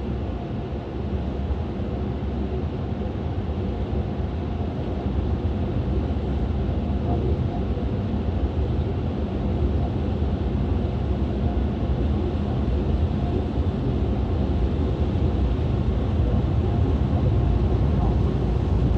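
Steady low mechanical rumble, growing slowly louder, from a car engine or car-wash machinery.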